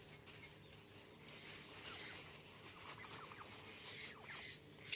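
Pet parrot making faint, soft bird sounds, with a single sharp click right at the end.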